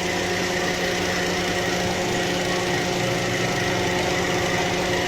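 Toyota car engine idling steadily, a constant running hum with no revving.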